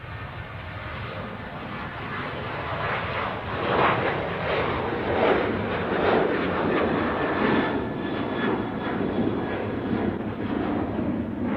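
Jet engines of an Emirates Airbus A380 running, growing louder over the first few seconds and then staying loud with a rough, crackling roar.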